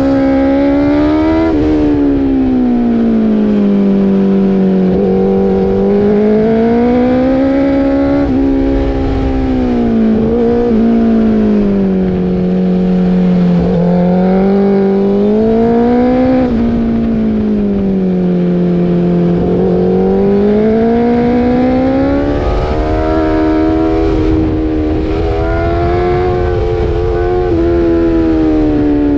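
Motorcycle engine under way, its pitch repeatedly climbing under throttle and dropping back as the rider shifts and rolls off for turns, over low wind rumble.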